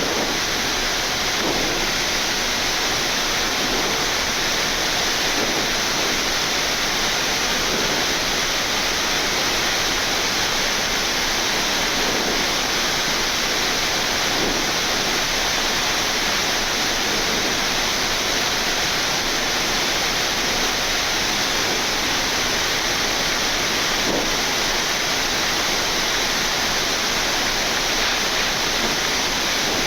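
Steady rush of air noise on a Boeing 787-9 flight deck in the climb, even and unchanging.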